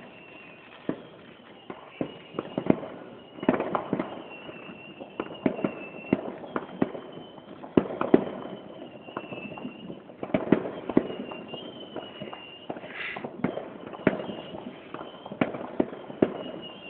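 Fireworks from several displays going off, irregular sharp bangs and crackles coming several times a second.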